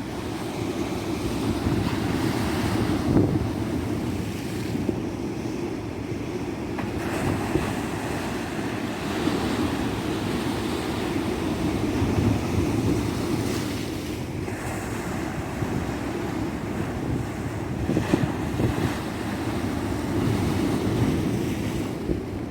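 Tropical sea surf breaking and washing up a beach: a continuous rush that swells and eases every few seconds, with wind buffeting the microphone.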